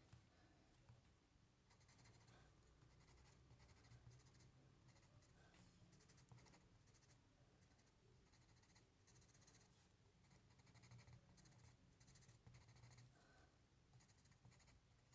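Very faint scratching strokes of a marker drawing on paper coated with oil pastel, over near-silent room tone.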